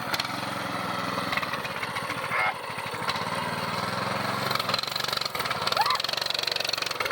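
Coleman mini bike's small single-cylinder engine running at low speed, strongest twice and easing off in between.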